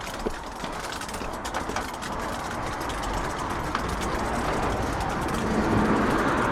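Road vehicle noise: a steady rush of engine and tyre sound that grows gradually louder, with a few light clicks in the first couple of seconds.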